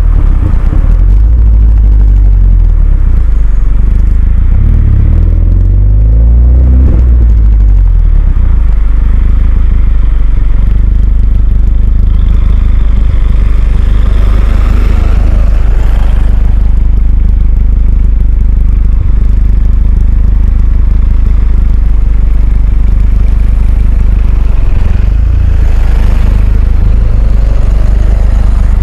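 Renault Mégane 2 RS 2.0-litre turbo four-cylinder through a Milltek cat-back exhaust, running hard with a heavy low rumble. The engine note climbs and drops several times as it revs up and comes off the throttle.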